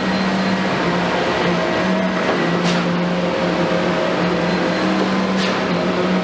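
Komatsu PC210 excavator's diesel engine running at a steady pitch, with two short high-pitched sounds about two and a half seconds apart.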